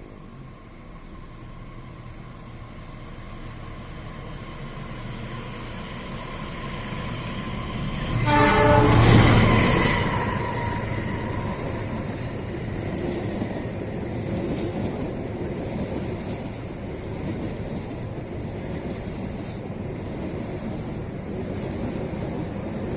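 A train approaches, getting steadily louder, sounds its horn in one short blast about eight seconds in, then keeps running past with a steady rumble of wheels on rails.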